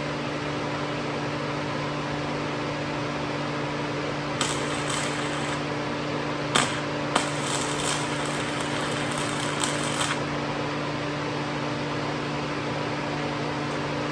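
Inverter MIG welder running with a steady fan hum. From about four to ten seconds in come several short crackling bursts, the arc of tack welds on galvanized tubing.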